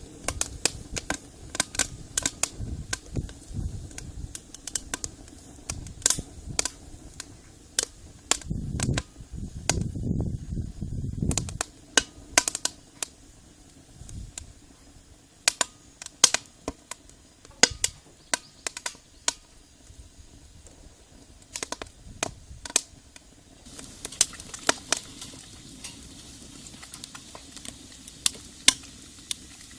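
Wood fire crackling in a brick rocket stove, with many sharp, irregular pops. About three quarters of the way through, a steady sizzling hiss of frying in the pan joins in. A few low rumbles come in the first half.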